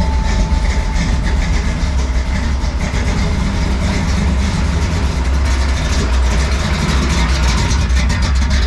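A car engine running with a steady, deep rumble, its firing pulses becoming more distinct near the end.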